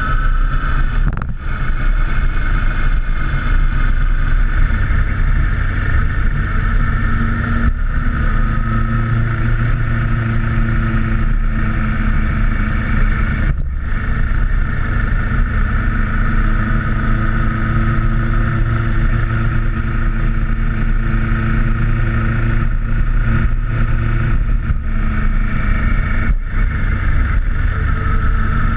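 Motorcycle engine running steadily while riding at cruising speed, with road and wind noise; the engine note drops briefly a few times.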